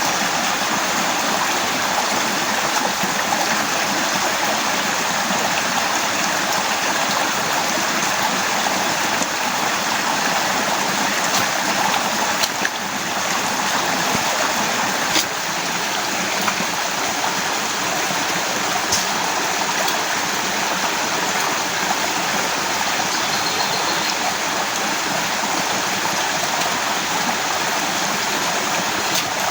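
Heavy rain falling steadily, a dense even hiss, with a few faint clicks.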